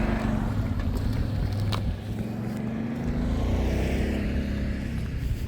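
An engine running close by, a low steady hum whose pitch wavers slightly.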